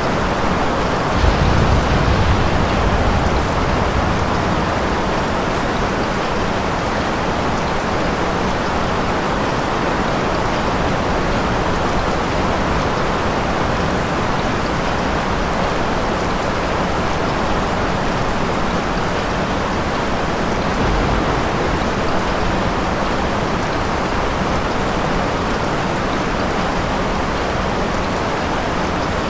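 Steady heavy rain falling outside. About a second in, a low rumble of distant thunder swells for a couple of seconds, and a fainter low rumble comes about two-thirds of the way through.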